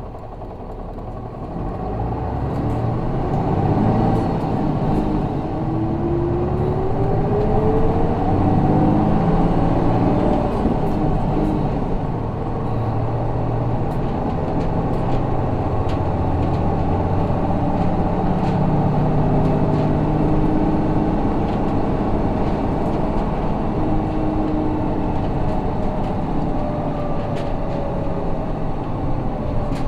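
Isuzu Erga city bus's 6HK1 inline-six diesel heard from inside the cabin. The engine pulls hard and rises in pitch as the bus accelerates over the first several seconds, then runs on at a steady pitch.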